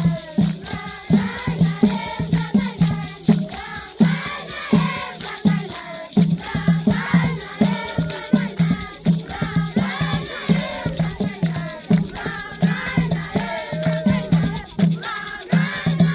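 Traditional Zimbabwean dance music: several voices singing together over a steady drum beat of about three strokes a second, with rattles shaking throughout.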